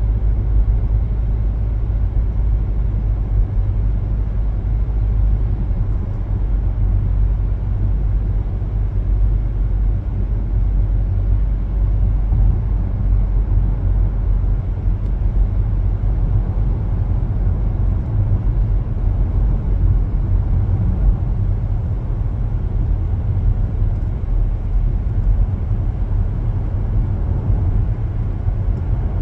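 Steady low road rumble of a car driving, heard from inside the cabin: tyre and engine drone with no sudden events.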